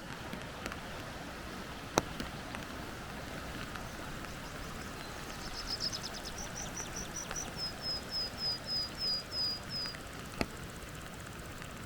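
A small songbird sings from about five seconds in: a quick trill, then a run of evenly spaced high notes that steps down in pitch partway and stops about ten seconds in. It sounds over a steady hiss, and two sharp clicks stand out, the louder about two seconds in and another near the end.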